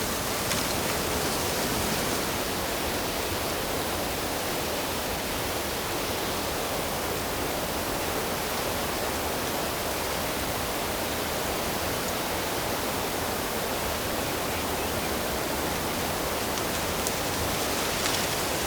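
Flowing water: a steady, even rush with no breaks or changes.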